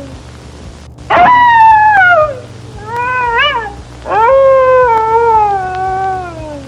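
Fox howling: three long wailing calls. Each rises sharply and then slides slowly down in pitch, and the middle one is shorter and wavers.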